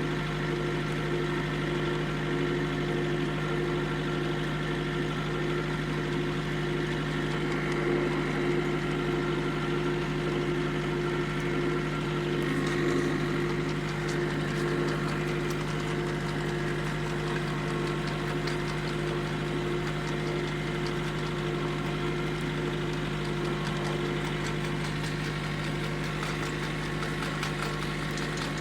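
Engine running steadily at a constant speed, with a few faint metallic clicks here and there. This is the engine that powers a homemade potato harvester.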